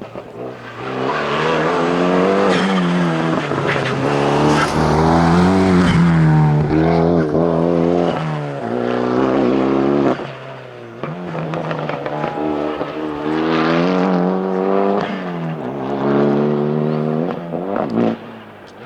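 Renault Clio Sport rally car engine revving hard through the gears, its pitch climbing and dropping back at each shift. The engine note falls away about halfway through, then pulls up through the gears again.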